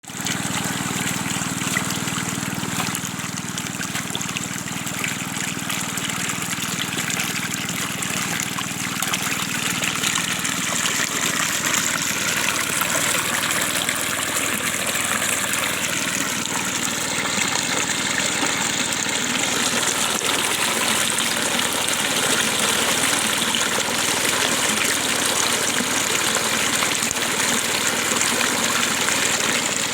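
Natural water flowing steadily over rocks, a stream's continuous rushing and splashing.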